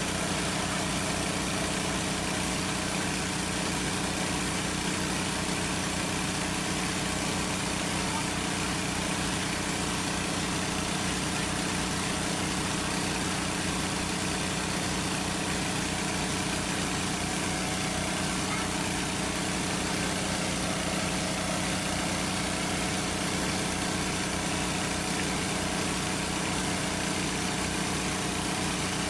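Small engine running steadily at one constant speed, with a fast low pulsing.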